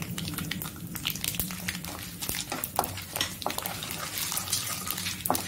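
Tempering of lentils, spices and curry leaves frying in hot oil, crackling with many short sharp pops, while turmeric powder is stirred in with a wooden spatula scraping the kadai, over a low steady hum.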